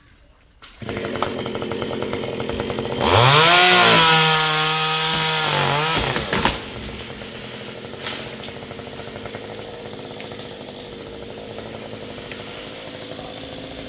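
Stihl two-stroke chainsaw: its engine comes in about a second in, is throttled up to a high whine for about three seconds, then drops back to a lower steady running level.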